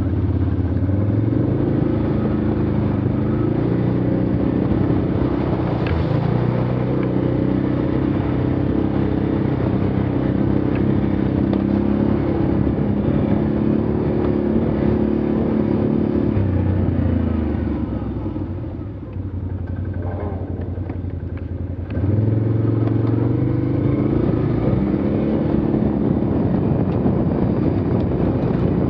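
Engine of a belt-drive (CVT) ATV working through mud, with the pitch moving up and down under load. About 17 seconds in the revs fall away to a low run, and at about 22 seconds they rise sharply again.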